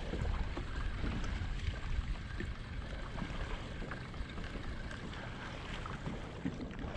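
Steady wind rumble on the microphone over water sloshing around a fishing kayak at sea, with a few faint ticks.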